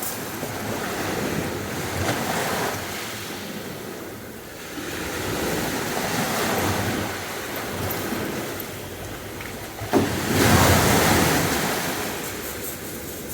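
Sea waves breaking and washing up the beach in slow swells, the loudest breaking with a sudden crash about ten seconds in and then fading.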